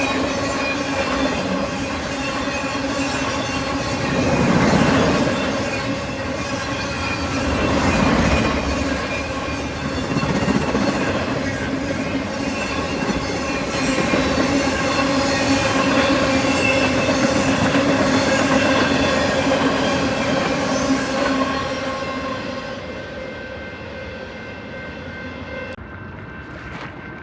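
A train running past with steady ringing tones over the rumble of the cars. It swells twice early on, then fades away over the last few seconds.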